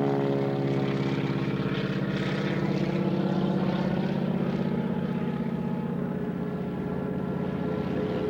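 Piston-engine propeller airplane running steadily at low power, with an even, fast-pulsing engine note.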